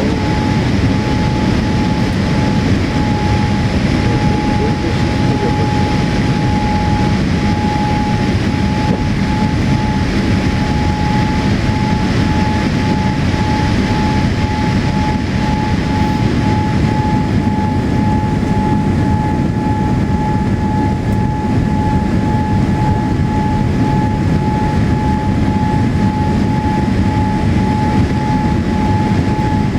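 Steady cabin noise inside an ANA Boeing 787-8 airliner: a constant rumbling rush with a thin, steady whine on top. A second, fainter higher tone joins past the middle.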